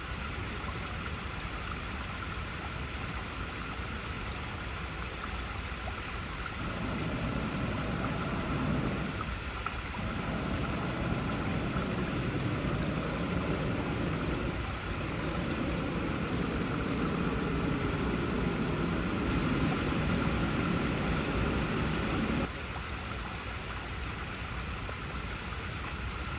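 Water flowing steadily over rocks, a constant rushing hiss. A deeper, louder rush joins in a few seconds in and cuts off suddenly a few seconds before the end.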